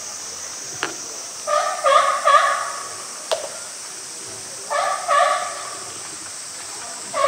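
A bird calling in short runs of about three harsh pitched notes, repeated every few seconds. Two sharp clicks fall between the runs.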